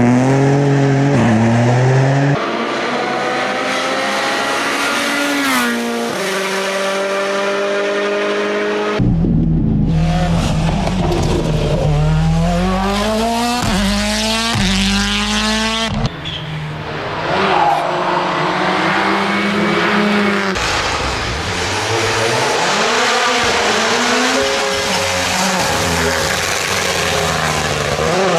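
Rally car engines at full throttle on tarmac, climbing in pitch through the gears and dropping sharply at each upshift, with braking and downshifts between. The sound changes abruptly several times as it cuts from one car to another.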